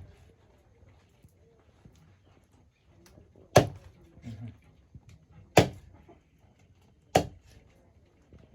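Raw chicken being chopped with a knife on a cutting board: three sharp chops about two seconds apart, with softer knocks of handling between them.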